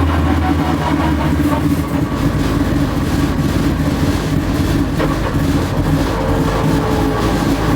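Drag car's 1000 hp engine idling with a rough, choppy beat; a steady low hum gives way to the rougher chop about two seconds in.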